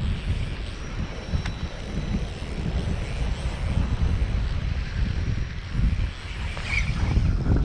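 Strong wind buffeting the microphone, a steady low rumbling noise, with a faint tick about a second and a half in.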